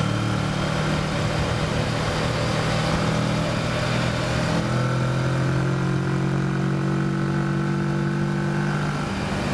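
Kawasaki Versys motorcycle engine running at a steady pace, with wind rush on the microphone. About halfway through, the engine note steps slightly higher and the wind rush eases.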